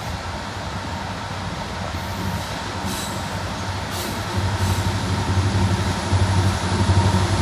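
A loaded coal train rolling past with its diesel locomotives running, a low drone that grows louder about four seconds in as the locomotives come close.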